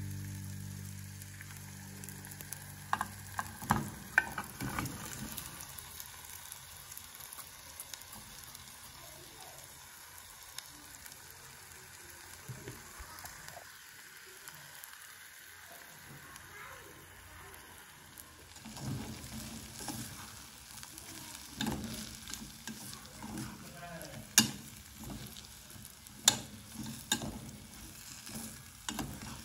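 Spice masala and beef sizzling in oil in a stainless steel pot. From about two-thirds in, a spoon scrapes and knocks against the pot as the food is stirred, with a few sharp clanks.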